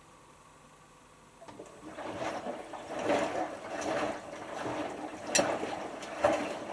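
Hotpoint HF8B593 front-loading washing machine in its synthetics rinse: after a quiet pause the drum starts turning again about a second and a half in, and the laundry and rinse water slosh and splash in uneven swells, about one a second.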